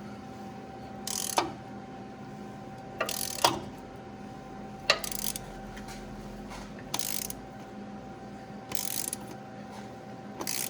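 Hand socket ratchet clicking in short strokes about every two seconds, slowly backing out a broken exhaust manifold stud, over a faint steady hum.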